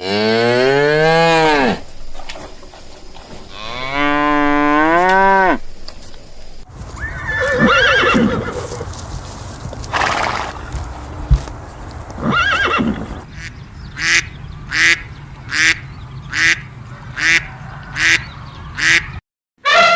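A string of farm-animal calls: two long pitched calls that rise and then fall, then a noisier stretch with shorter calls, then about eight short calls spaced under a second apart.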